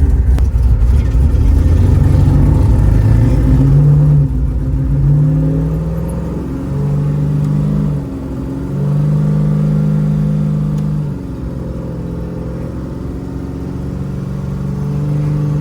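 1955 Chevy Bel Air's V8 engine driving under load: the revs climb over the first few seconds, then the engine note steps up and down, falling back briefly twice, about eight and eleven seconds in.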